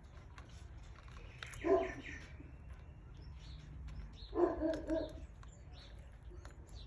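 Faint high cheeping and chirping of canary chicks, with two louder, lower-pitched yelping calls, one about two seconds in and a broken run of calls around the middle.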